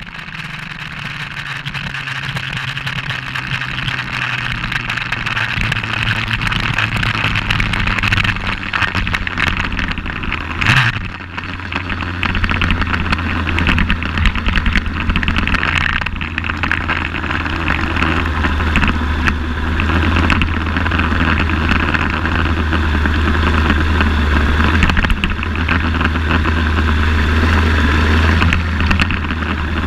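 Suzuki GS1200SS's air- and oil-cooled inline-four idling steadily, picked up by a camera mounted on the bike. The sound fades in over the first few seconds. About eleven seconds in there is one brief sharp sound.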